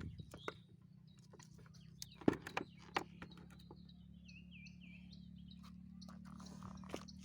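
A bird gives a short run of quick, repeated falling chirps about four to five seconds in. Under it runs a low steady hum, and a few sharp clicks come earlier, the loudest about two seconds in.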